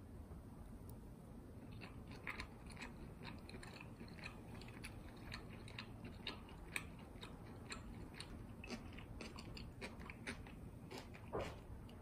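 Close-up chewing of a mouthful of stir-fried beef and mushroom with whole-grain mustard: soft, irregular crunches and wet clicks starting about two seconds in, with a louder crunch near the end.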